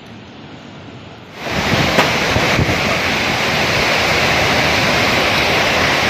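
Strong storm wind buffeting the microphone with heavy rain, a loud, dense rushing noise that comes in suddenly about a second in over fainter rain noise.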